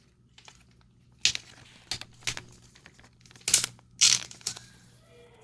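Trading cards being handled and flipped through: a string of short papery swishes and crinkles, about five distinct ones.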